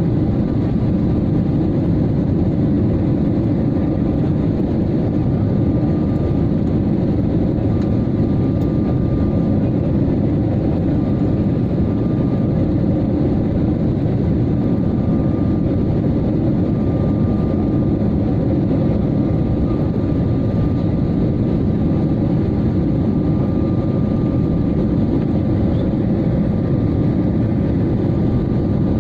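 Steady engine and airflow noise inside a passenger airliner's cabin in flight: a deep, even rumble with a faint steady whine above it.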